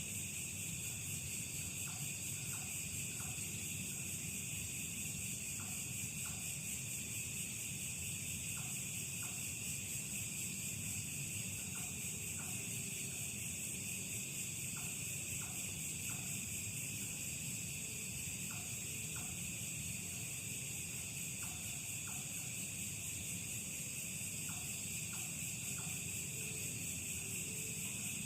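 A steady, high-pitched chorus of night insects, with short chirps recurring every second or two, often in pairs, over a low rumbling background.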